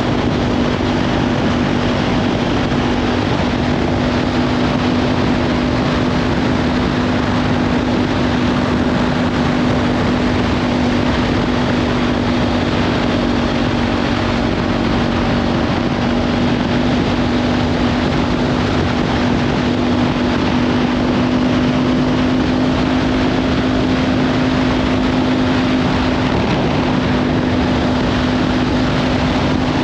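Kawasaki Ninja 500's parallel-twin engine with a Leovince slip-on exhaust running at a steady cruising pace, its note holding nearly even, under heavy wind noise on the microphone.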